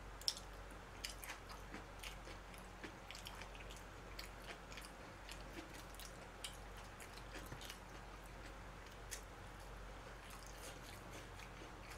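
Faint chewing and biting of food in the mouth, with scattered small clicks and smacks from the mouth and chopsticks. The clicks are most frequent in the first two-thirds and thin out near the end.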